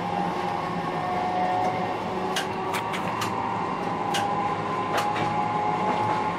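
Dubbed-in sound effect of an old electric train running: a steady running noise with a faint whine, and a few sharp clicks between about two and five seconds in.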